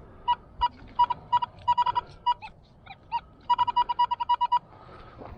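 Metal detector giving short, high, same-pitched beeps, then a fast run of about eight a second, with a few falling chirps in between: it is sounding off over a buried target, which turns out to be a penny.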